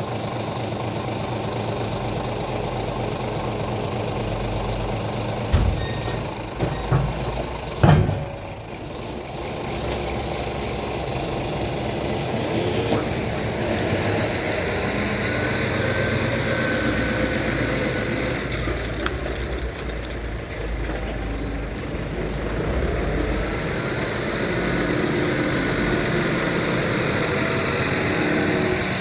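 Scania truck's diesel engine running steadily, with a few loud clanks and knocks between about six and eight seconds in.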